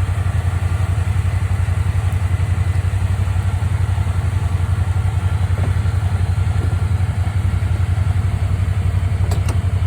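Utility vehicle's engine idling steadily with a fast, even low throb.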